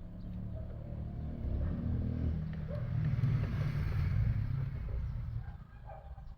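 A vehicle passing by, its low rumble swelling to a peak about three seconds in and then fading away.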